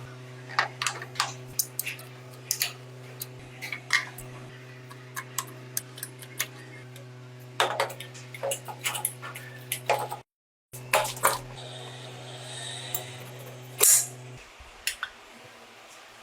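A steady hum runs under many light, sharp metallic clicks and taps, as of small tools and metal parts being handled. The hum stops about fourteen seconds in.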